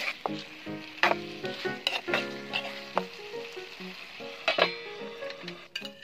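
Chicken pieces sizzling as they fry in a black wok, with a metal ladle scraping and clacking against the pan as they are stirred. A light tune plays underneath.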